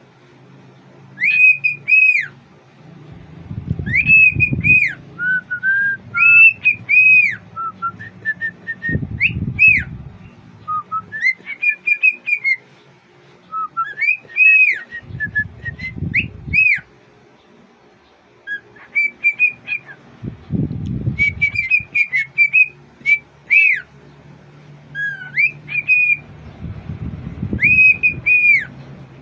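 Young cockatiel whistling its song: short, arched, high whistle notes repeated in phrases every couple of seconds, with lower sliding notes between them, somewhat off-key. A low rumble comes and goes under the whistling.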